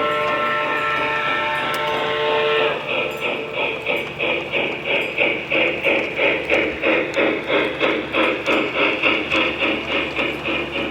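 O gauge model steam locomotive's sound system blowing a chime whistle of several steady tones, which cuts off nearly three seconds in. Steady steam chuffing follows at about two and a half beats a second.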